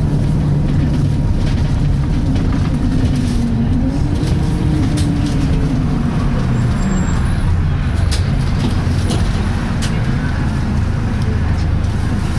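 Interior of a Volvo B10BLE single-deck bus under way: a steady low drivetrain hum, with a whine from the Voith automatic gearbox that rises and then falls away between about two and six seconds in. Several sharp rattles from the bus body come later.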